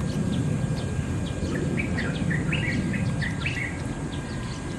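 Small birds chirping: a run of short, quick chirps, busiest in the middle, over a steady low background rumble.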